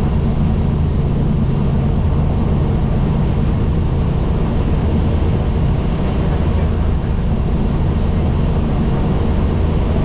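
Helicopter in flight: the steady, loud drone of rotor and engine, strongest in its deep notes and unchanging throughout.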